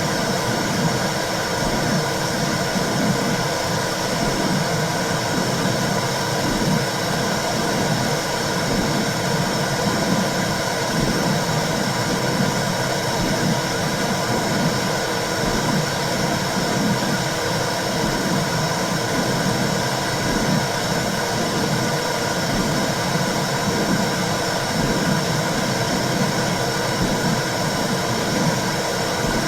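Womb sound for soothing a baby: a steady whooshing hiss with a low, rhythmic pulsing beneath it.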